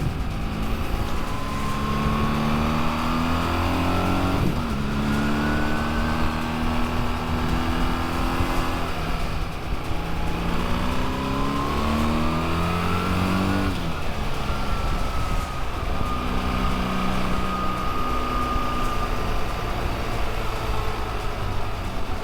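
Motorcycle engine pulling hard, its pitch climbing through the revs and dropping sharply at gear changes about four and a half seconds and fourteen seconds in, then holding steadier near the end, with road and wind noise throughout.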